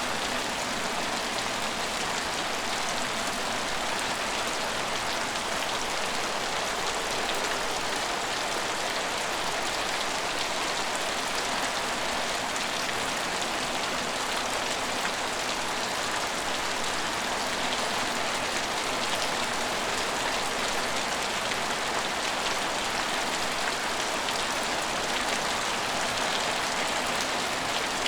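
Steady rain falling and pattering on hard surfaces, a constant hiss with fine drop impacts.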